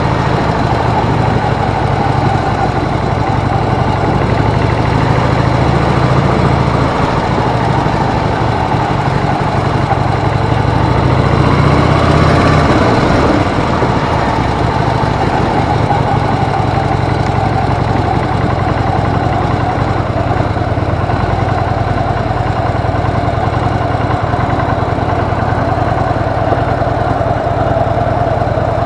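Harley-Davidson motorcycle's V-twin engine running steadily, swelling slightly about halfway through.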